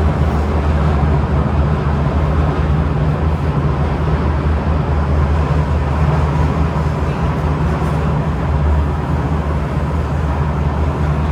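Kawasaki–CRRC Sifang CT251 metro car heard from inside while running between stations: a loud, steady low rumble of wheels and traction equipment with a faint steady whine. Its flat wheels pound on the rails as it runs.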